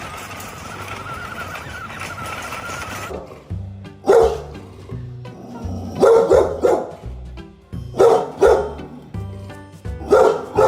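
A steady noise for about three seconds, then a dog barking loudly over background music with a bass line. The barks come singly or in quick pairs, about every two seconds.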